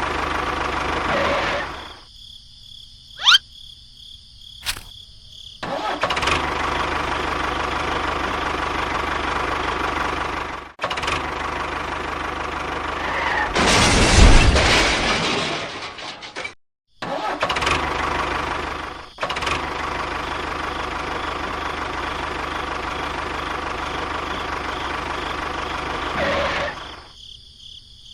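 Small engine of a DIY mini tractor running steadily. It is heard in several edited stretches that start and stop abruptly, with a louder surge about halfway through.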